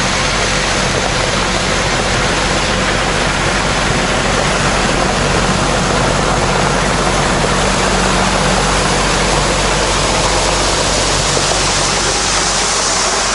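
Tractor engine running steadily, its low drone under a strong, even rushing noise.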